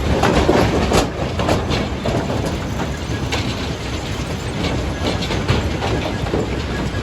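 Rock crusher breaking stone: a steady heavy rumble overlaid with frequent sharp cracks and the clatter of rocks knocking together, busiest in the first second.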